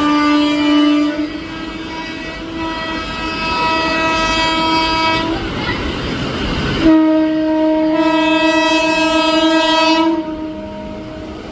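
Electric locomotive horn on an Indian Railways express sounding two long, steady blasts, the second starting about seven seconds in and stopping about three seconds later, over the rumble of the train.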